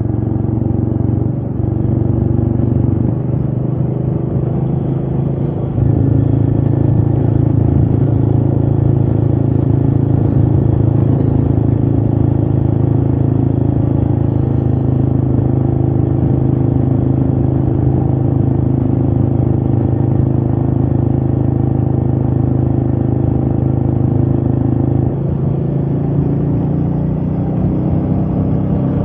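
Royal Enfield Meteor 350's single-cylinder engine running under way. Its note steps up and gets louder about six seconds in, holds steady, then drops lower about four seconds before the end.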